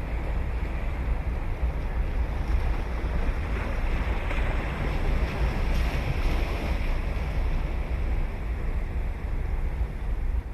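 Ocean surf washing onto a sandy beach, with a wave surging in louder about four seconds in and fading back, over a steady low rumble of wind on the microphone.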